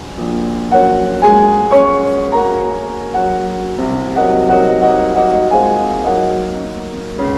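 Background piano music: a slow melody over chords, with a faint rush of water underneath.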